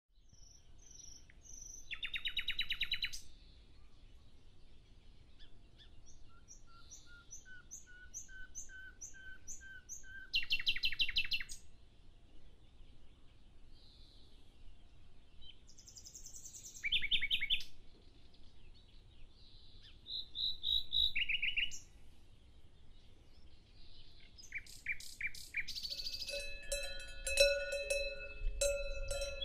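Wild birds singing, several different songs: fast trills and a run of evenly repeated short rising notes. Near the end, music with steady held notes comes in.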